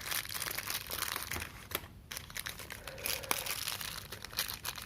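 Plastic packaging crinkling and crackling as it is handled, with scattered small clicks.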